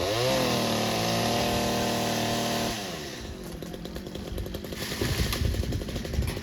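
Two-stroke chainsaw revving up sharply to full throttle, holding a steady high pitch for nearly three seconds, then dropping back off throttle.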